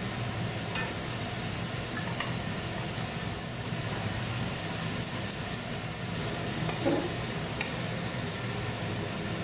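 Beaten egg sizzling in hot oil in a nonstick wok while a wooden spatula stirs and scrapes it, with scattered light clicks of the spatula on the pan and a louder knock about seven seconds in. The sizzle grows brighter about three and a half seconds in, over a steady low hum.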